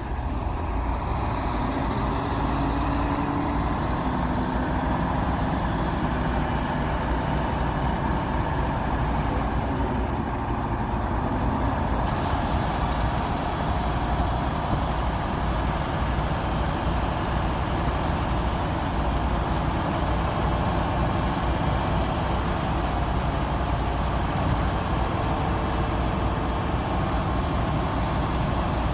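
Diesel engine of a Komatsu D60P bulldozer running steadily with a low rumble.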